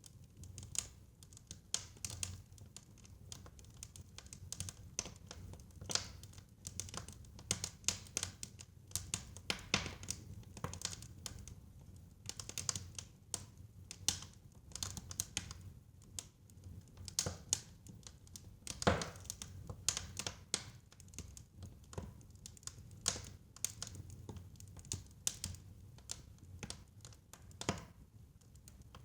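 Fire crackling in a fireplace: irregular snaps and pops over a low, steady rumble, with one louder pop about two-thirds of the way through.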